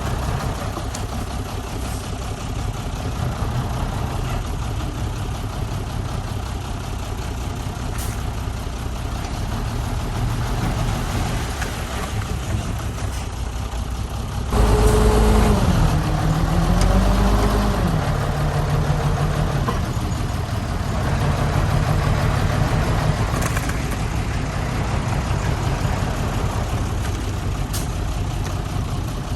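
Heavy diesel engine of construction machinery running steadily. About halfway through it gets suddenly louder and revs up and down for a few seconds, then settles to a steady note.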